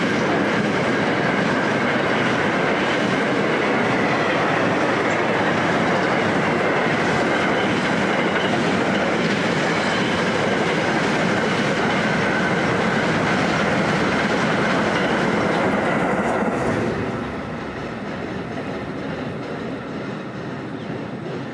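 Freight train wagons rolling past on the rails: a steady rumble of wheels on track with a faint high squeal. It drops in level about three-quarters of the way through.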